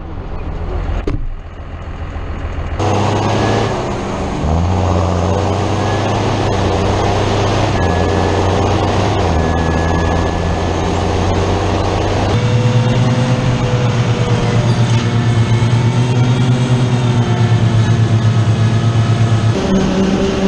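Heavy diesel engines of silage-harvesting machinery running steadily. The engine note changes abruptly a few seconds in, again about twelve seconds in, and near the end, as one machine's sound gives way to another's.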